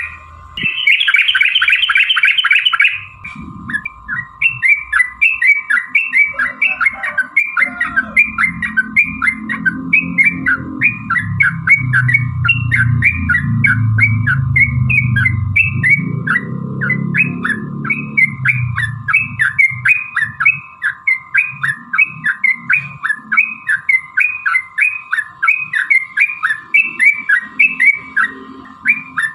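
Yellow-vented bulbul (trucukan) singing a long run of quick chirping notes, repeated evenly at two or three a second after a short burst of dense chatter. A steady hum lies underneath, with a low rumble through the middle.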